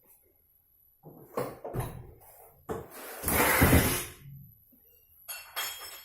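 Irregular knocks and rubbing of tools and materials being handled, with a louder noisy stretch lasting about a second a little past the middle and a few clinks near the end.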